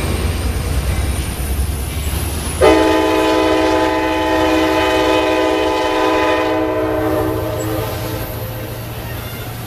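Amtrak California bilevel passenger cars rolling past with a steady low rumble from the wheels and rails. About three seconds in, a train air horn sounds one long blast of about five seconds, then stops.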